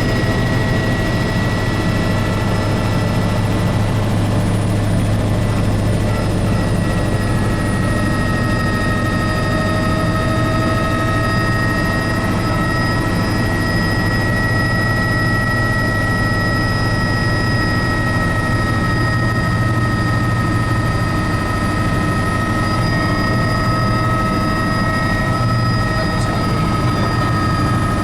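Tour helicopter in steady flight: an even low rotor drone with a steady high turbine whine over it.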